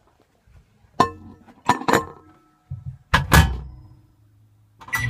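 Three separate knocks about a second apart, each with a short ringing tail, the last the loudest. Just before the end, a steady low hum starts with a short high beep.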